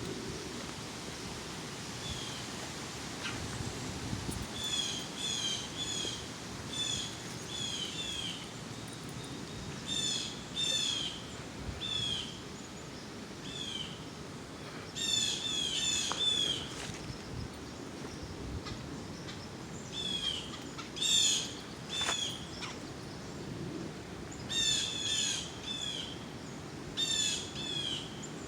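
Songbirds calling: short chirping notes in clusters of two to four, recurring every second or two, over a steady background hiss.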